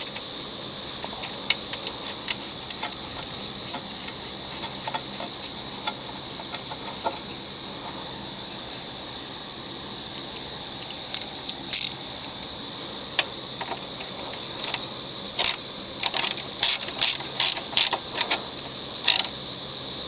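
Ratchet socket wrench clicking as a lawnmower's oil drain plug is tightened: scattered clicks in the second half, then a run of clicks about two a second near the end. A steady high insect buzz runs behind it.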